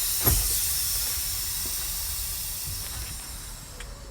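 Compressed air hissing out of the truck's air brake system as both parking brakes are released. The hiss starts sharply with a click and fades away over a few seconds. It is the initial pressure drop, about 12 psi, at the start of a static air leakage test.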